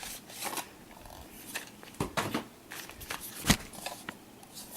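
Handling noise from unboxing: an irregular run of short clicks and crinkles, with a louder knock about three and a half seconds in.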